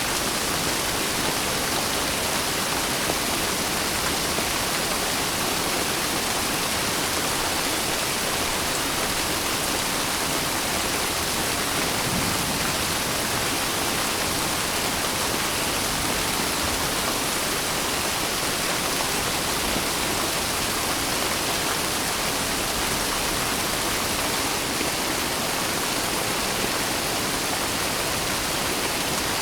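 Steady, dense rain hiss without a break, with no distinct drops or thunder standing out.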